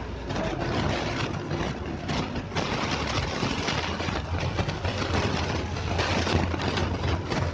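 A motor vehicle engine running steadily with a low hum, under a noisy wash.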